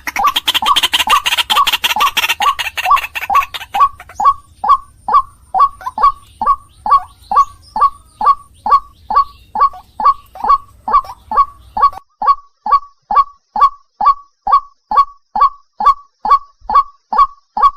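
White-breasted waterhen (ruak-ruak) giving its monotonous repeated call, about two and a half short downward-sweeping notes a second, used as a bird-lure recording. A harsher noisy chatter overlaps the calls for the first few seconds, and a low background hum cuts out about twelve seconds in.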